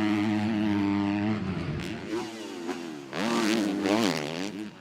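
Motocross bike engine at high revs, its note held steady and then dropping off after about a second and a half; about three seconds in it revs up and back down again.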